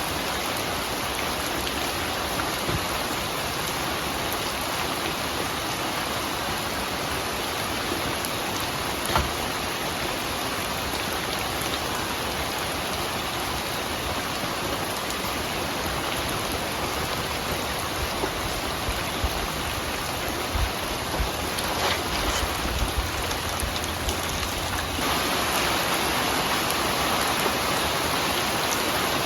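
Steady rainfall, with a few louder drops pattering and knocking now and then; the rain grows slightly heavier near the end.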